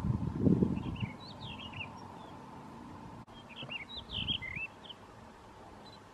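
Blue rock thrush singing two short warbling phrases of quick, up-and-down fluttering notes, one about a second in and another after about three seconds. A low rumble at the start is the loudest sound.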